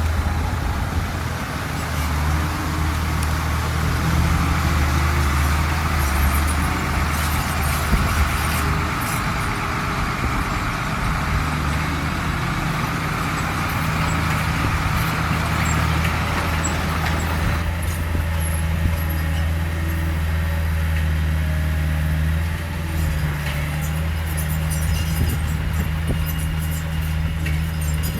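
Heavy diesel engine of an earthmoving machine running steadily with a deep drone. The higher-pitched noise drops away about two-thirds of the way through.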